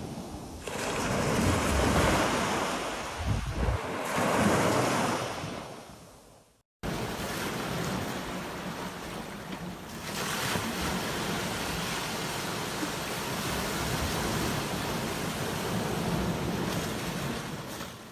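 Ocean waves breaking on a beach: a wave swells and fades, then after a short silent break about seven seconds in, steadier surf follows with wind on the microphone.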